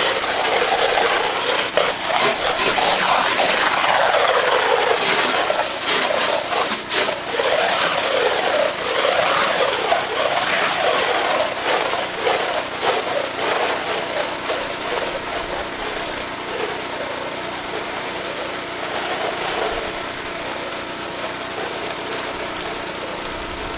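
A 4-gallon-per-minute pressure washer running and spraying water onto vinyl house siding, with a wavering hiss that is louder in the first half and settles steadier and a little quieter about halfway through.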